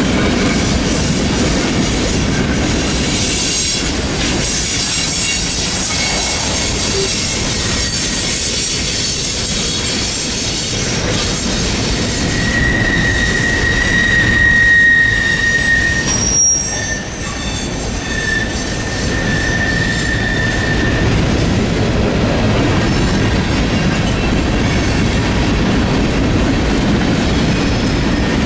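Freight train cars rolling past, a steady rumble and rattle of wheels on rail. About twelve seconds in, a high-pitched wheel squeal sets in for several seconds, breaking up before it fades.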